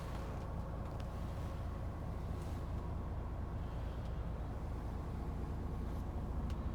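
The truck's Paccar 450 bhp Euro 6 diesel engine running at a steady idle, a low even rumble with a faint steady whine above it and a few light clicks.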